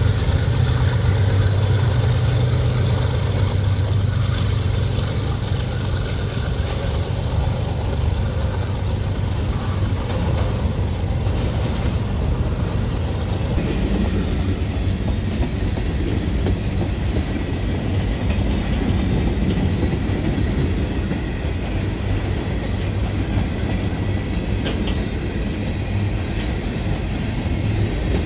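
Freight train passing: CSX hopper cars roll by with their wheels clattering on the rails. During the first several seconds the diesel locomotives' engines drone low and steady under throttle as they pull away, then fade.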